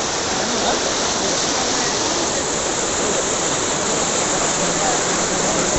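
Floodwater rushing loudly and steadily.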